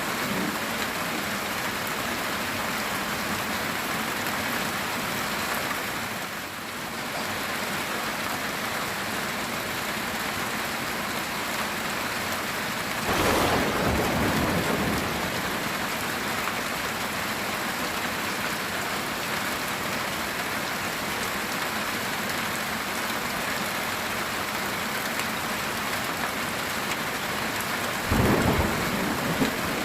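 Heavy rain falling steadily on a metal tin roof, with two claps of thunder: one about halfway through lasting a couple of seconds, and a shorter one near the end.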